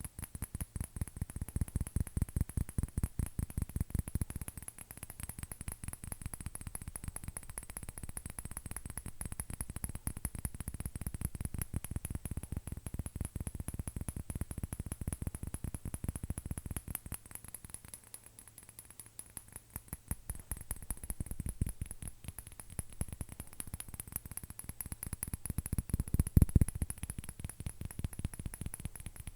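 Fingernails tapping fast on an object, a dense, even patter of small clicks that swells and eases, thins out for a moment about two-thirds of the way in, and is loudest near the end.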